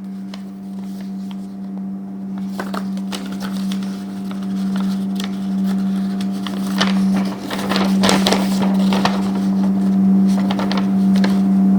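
Paper crinkling and rustling as an instruction sheet is handled, in irregular crackles that grow busier after the first couple of seconds, over a steady low hum.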